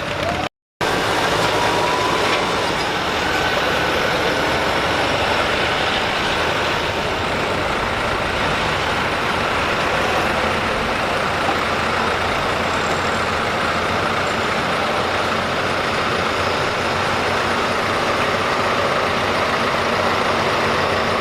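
A tractor-pull vehicle's engine running hard, a loud, steady, unbroken sound that holds for the whole stretch, apart from a brief dropout just after the start.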